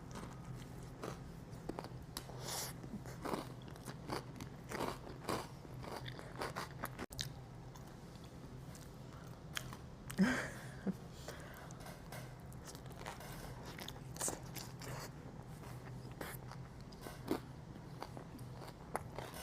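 Close-miked eating: a person biting and chewing a Caesar salad wrap, with irregular wet mouth clicks and light crunches. A low steady hum runs underneath, and the loudest bite-and-chew comes about halfway through.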